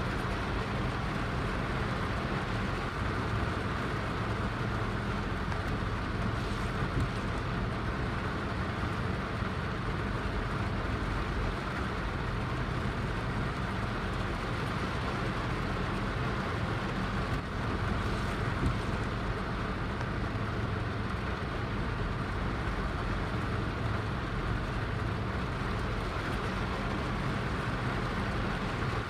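Heavy rain falling steadily, an even hiss with a low rumble beneath it.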